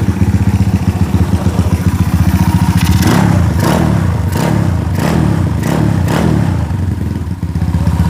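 Motorcycle engine running, with a run of about six quick sharp revs from about three to six and a half seconds in.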